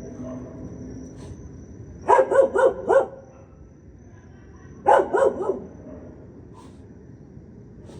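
A dog barking twice in quick runs, four barks about two seconds in and three more about five seconds in. A steady high cricket trill runs underneath.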